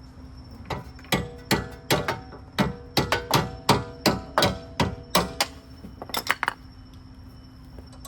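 Hammer striking a metal car suspension part: about a dozen hard blows at roughly two to three a second, each leaving a short metallic ring, then a quick cluster of lighter knocks.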